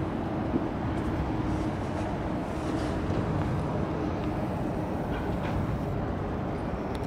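Steady low rumble of a Tobu Railway train crossing the railway bridge beside the walkway, with a faint steady hum.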